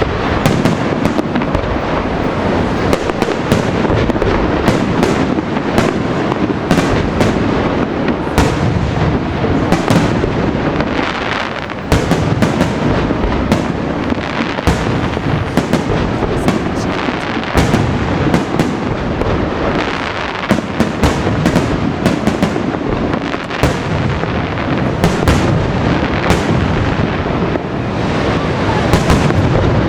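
Fireworks display in full barrage: continuous booming rumble of aerial shells with many sharp cracks and bangs, several a second, without a break.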